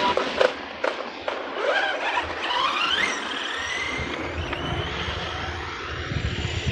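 Redcat Shredder 6S RC truck's electric motor whining, its pitch rising and falling with the throttle, then settling into a steadier whine. A few sharp knocks in the first second and a half.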